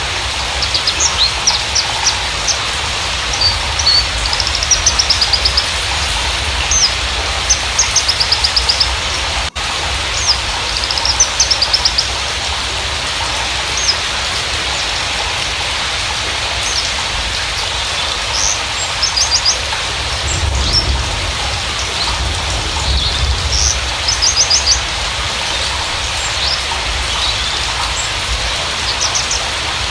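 Javan bush lark (Mirafra javanica parva) singing: repeated bursts of high, quick chirps and rapid trills, over a steady rain-like hiss.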